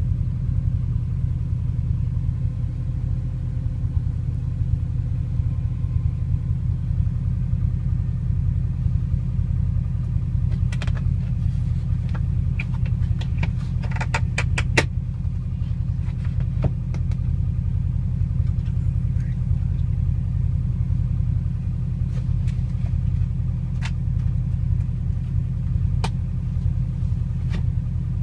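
Subaru Impreza's flat-four boxer engine idling steadily with a low rumble, still warming up after a cold start. A run of sharp clicks comes about halfway through, and a few single clicks follow.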